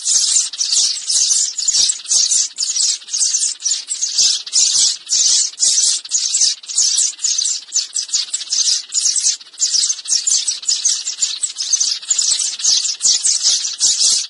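Sparrows chirping in a fast, unbroken chatter of high chirps, about three a second, played as a bird-lure recording.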